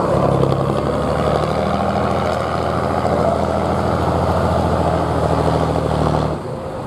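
Heavy truck's diesel engine running steadily under load, its level dropping suddenly near the end.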